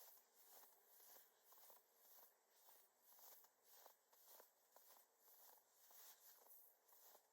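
Footsteps crunching lightly in snow at a steady walking pace, about two steps a second, very faint.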